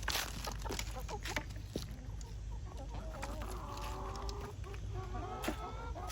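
A flock of backyard hens clucking and chattering continuously while they feed on scraps. Sharp clicks and a short crackling burst at the start break through the calls.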